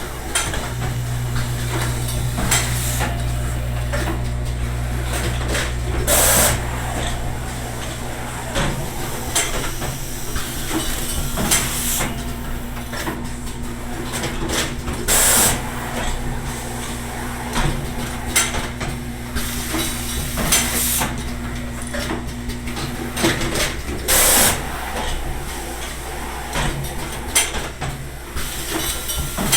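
A train running: a steady low hum with rattling and clicking, and several short bursts of hiss. The hum stops about three quarters of the way through.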